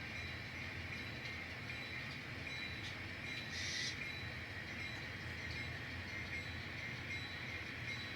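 N scale model locomotive pulling a string of cars along the track: a steady small-motor whine over the rolling rumble of the wheels. A brief higher squeak comes about three and a half seconds in.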